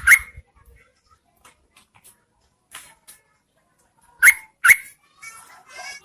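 Yellow-vented bulbul calls from a female-bird lure recording meant to draw males: a pair of sharp, loud notes at the start and another pair about four seconds in, then a quick bubbling chatter near the end.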